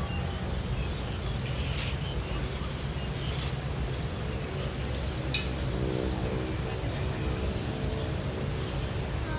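Heavy rain drumming steadily on a campervan, a dense low rumble with a few sharp clicks of drops scattered through it.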